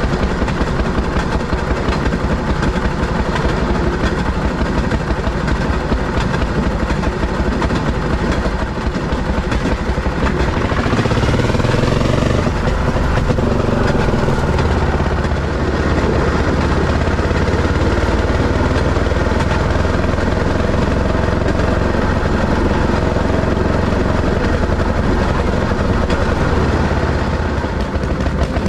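Railroad speeder motorcar running along the track, its small engine holding a steady loud drone over a fast ticking clatter. A brief rising whine shows about ten seconds in.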